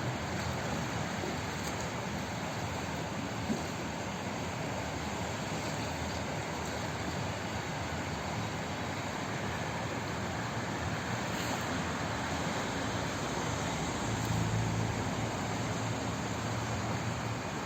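Flowing water rushing steadily, an even hiss with a low rumble that swells for a few seconds near the end.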